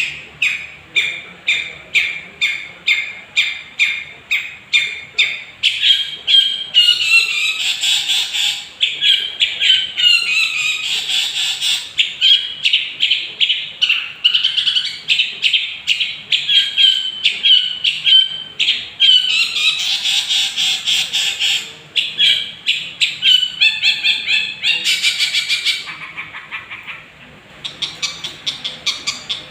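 Long-tailed shrike (cendet) singing a long, varied song. Fast runs of repeated sharp notes, about three a second, alternate with rising and falling whistled phrases. The song drops away briefly near the end.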